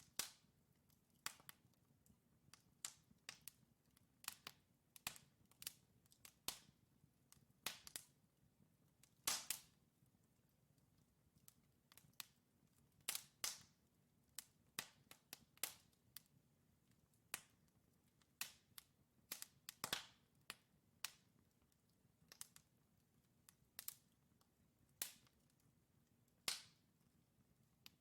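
Wood fire crackling in a fireplace: burning logs giving irregular sharp pops and snaps, several a second, some louder than others, over a faint low hiss of flame.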